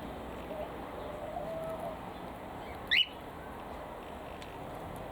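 Aviary birds calling: one short, sharp upward-sweeping chirp about three seconds in, which is the loudest sound, and a soft, low wavering call a little earlier.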